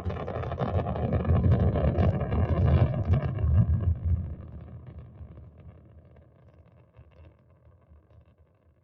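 Rocket launch: a deep, rough rumble that starts suddenly, is loudest for the first few seconds, and then fades steadily away as the rocket climbs out of hearing.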